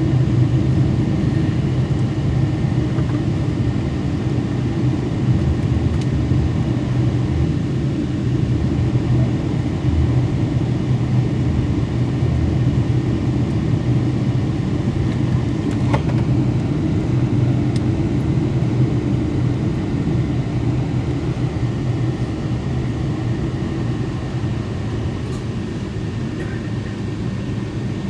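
Cabin noise of a Boeing 777-200 taxiing: a steady low rumble of the engines at taxi power and the airframe rolling along the taxiway, easing slightly toward the end, with one faint click about halfway through.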